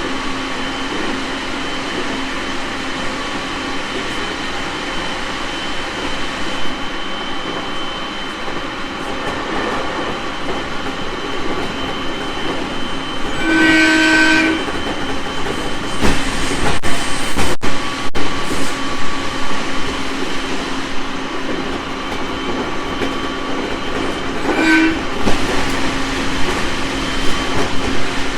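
A JR 701 series electric train running, heard on board: steady rolling and wheel noise with a constant electrical whine. A train horn sounds for about a second midway and again briefly near the end, and there is a louder rushing stretch with sharp clicks just after the first horn.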